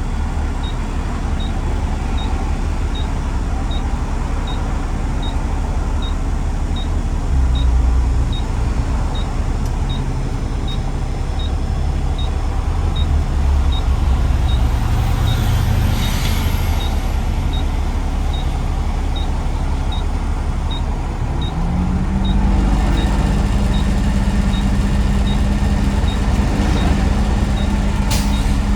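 Garbage truck driving, with a steady low engine and road rumble. About three-quarters of the way in, the engine note rises to a steady drone and drops away near the end. A faint, even ticking runs about twice a second.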